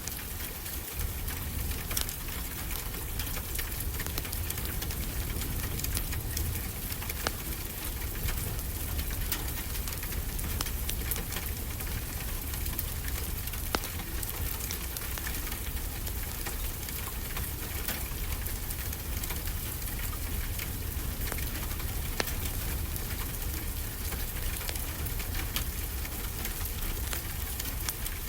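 Wood fire crackling, with scattered sharp pops over a steady hiss, layered on a constant low rumble of ocean surf.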